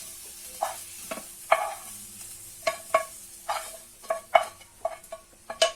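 A spoon stirring and knocking against a frying pan of green beans sautéed in butter, about a dozen irregular ringing knocks over a faint sizzle.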